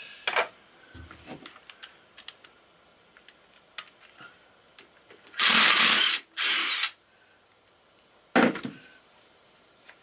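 Handheld power tool, such as a cordless drill or driver, run in two short bursts about halfway through, then a third brief burst near the end, with light clicks and knocks of tools in between.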